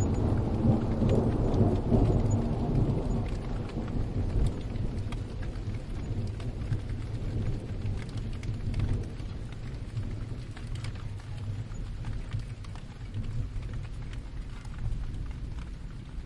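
Steady rain with a roll of thunder that rumbles loudest in the first few seconds, then slowly dies away while the rain patters on.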